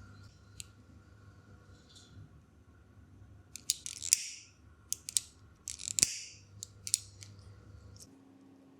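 A hand tool clicking sharply several times, with two short swishing cuts like scissors or snips closing, in the middle few seconds.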